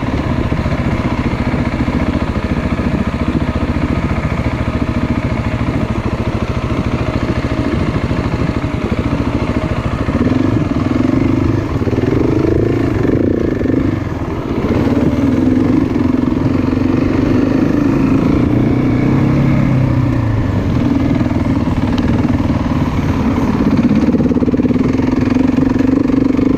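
Off-road motorcycle engine running continuously, revving up and down about ten seconds in, then holding a steadier, higher pitch.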